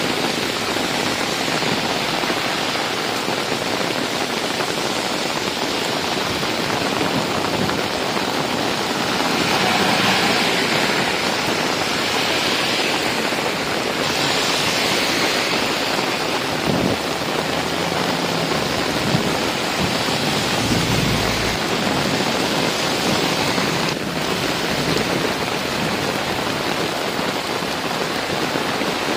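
Very heavy rain pouring steadily onto a road and trees. A few vehicles hiss past through the standing water near the middle, with a low engine sound toward the later part.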